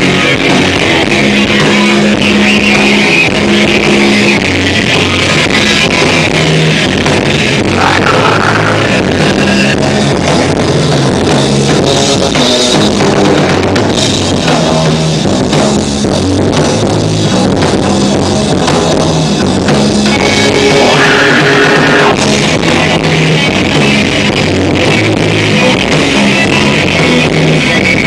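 Rock band playing live, with electric guitar over a steadily pounding drum kit, loud and continuous.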